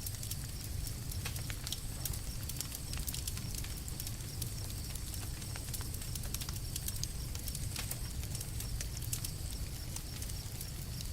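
Campfire burning: irregular sharp pops and snaps of crackling wood over a steady low rumble.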